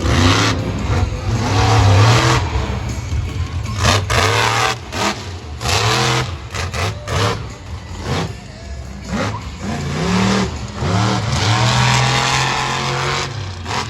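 Monster truck engine revving hard in repeated bursts, its pitch sweeping up and down, with a longer held rev near the end.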